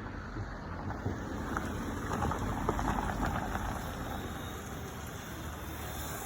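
Wind rumbling on the microphone outdoors, with a rough crackling rustle about two to three seconds in.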